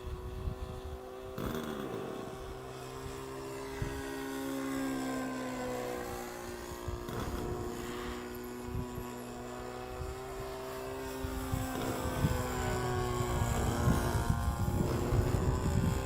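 Model airplane's small combustion engine droning in flight, its pitch rising and falling as the plane passes by, louder in the last few seconds.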